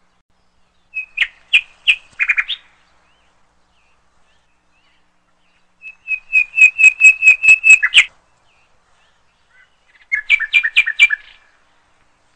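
A bird chirping in three separate runs of quick, high chirps: one about a second in, a longer even series of about ten chirps around six to eight seconds in, and a last run near the end.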